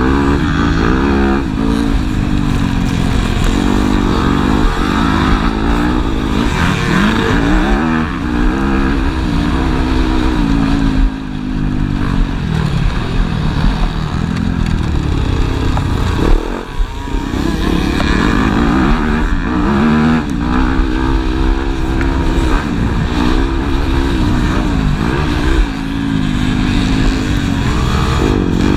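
Motocross bikes racing, their engines revving up and dropping back again and again as they accelerate and shift, with several bikes overlapping.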